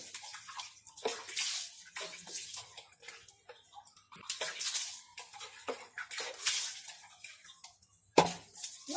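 Water splashing in repeated, irregular splashes, about one every half second to a second, as in washing by hand.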